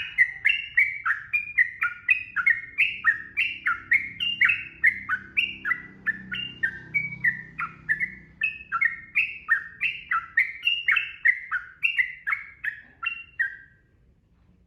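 Yellow-vented bulbul (trucukan) singing a long, rapid run of short, clear, falling notes, about three a second, the continuous 'ropel' song. It stops abruptly near the end.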